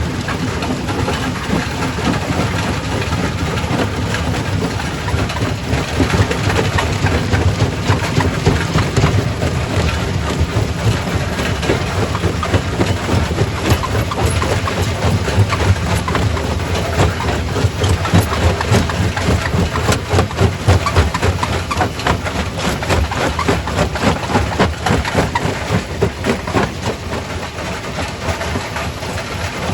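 Quarry primary rock crusher running and breaking stone: a heavy, steady mechanical drone under a dense, irregular clatter of rock cracking and knocking.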